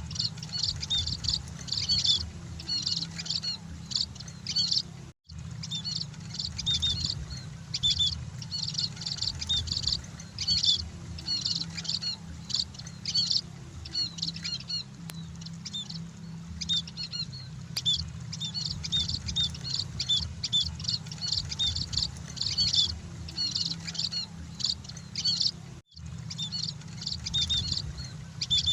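A flock of munias (emprit) chirping without pause in quick high twitters, over a steady low hum. The sound cuts out for an instant about five seconds in and again near the end.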